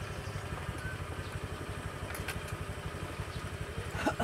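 Motorcycle engine idling with a steady, even low pulsing while the bike stands still.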